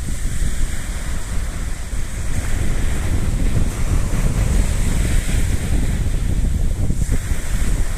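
Wind buffeting the microphone with a ragged low rumble, over a steady hiss of sea surf.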